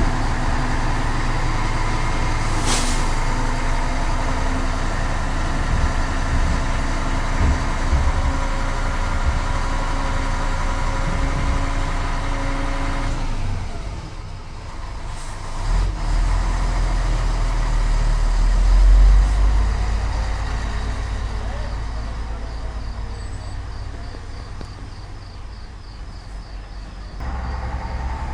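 RC truck motor running steadily with a pitched whine. About thirteen seconds in it changes to a quieter, lower rumble.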